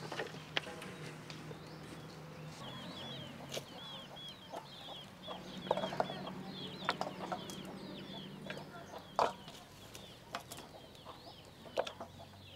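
A bird chirping in a quick run of short, repeated high calls through the middle, over scattered clicks and knocks from hands picking bones out of a heap of cooked, shredded chicken. A low steady hum runs underneath.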